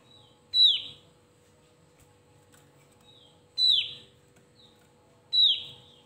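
Javan heleia (opior Jawa) calling: three loud, short, sharp notes, each dropping quickly in pitch, a second and a half to three seconds apart, with softer short calls between them.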